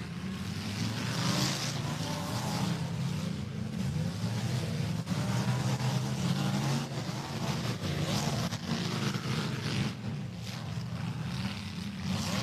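Demolition derby cars' engines running and revving in the arena, a steady engine drone with rises and falls in pitch as the drivers push the cars.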